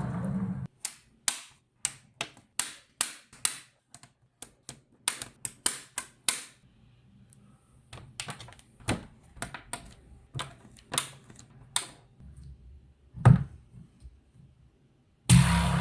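Neodymium magnets and steel balls snapping together one after another, a string of sharp irregular clicks that thins out after about six seconds, with one louder click later on. Near the end a louder, longer noisy sound starts suddenly.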